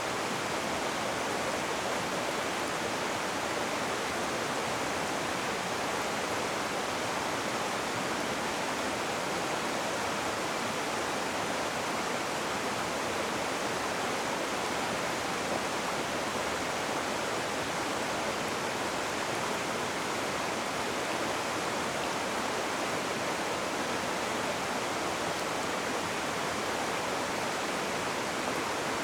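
Rushing water of a river or stream, a steady even rush with no breaks or separate splashes.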